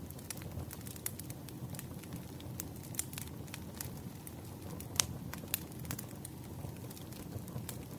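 Crackling wood fire: irregular sharp pops and snaps over a low steady rumble, the loudest pop about five seconds in.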